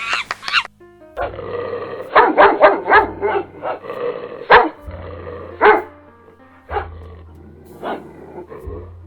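A dog barking, with several short, sharp barks in quick succession about two seconds in and a few more a couple of seconds later.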